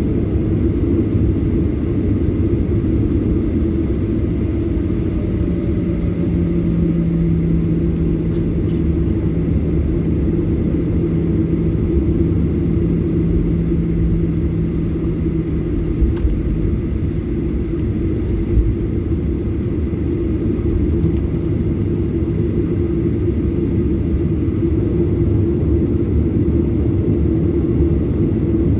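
Steady low rumble of a Boeing 737-800's CFM56-7B engines heard from inside the cabin, running at low power. A hum comes in for about ten seconds, and two brief thumps come near the middle.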